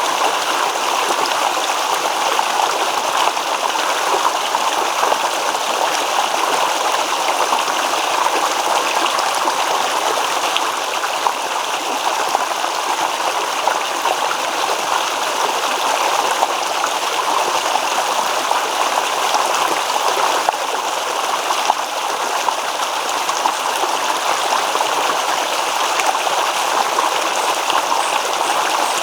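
Small stream babbling and trickling over stones, a steady, even flow of running water.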